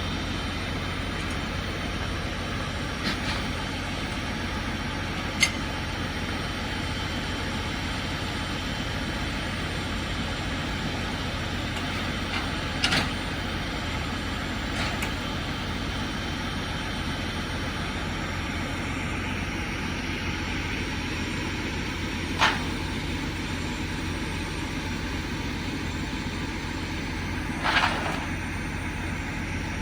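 Car hauler truck's engine idling steadily, with half a dozen short, sharp clanks or knocks spread through it.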